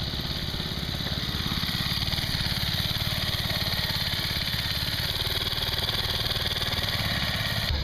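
An engine running steadily at idle, its firing pulses even.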